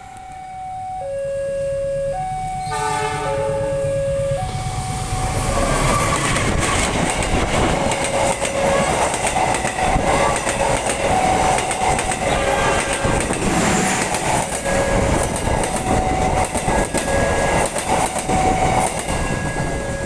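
A two-tone alarm alternates over and over while a locomotive horn blows about three seconds in. The KA Jayabaya passenger train then passes close by, loud and clattering over the rail joints, mostly burying the alarm.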